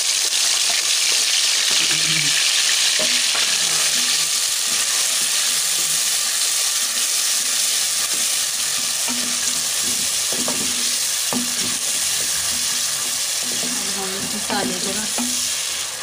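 Onion, tomato, green chilli and garlic paste sizzling in hot oil in an aluminium pot as it fries toward brown, stirred with a wooden spoon. The hiss is steady and eases slightly toward the end, with a few knocks and scrapes of the spoon in the second half.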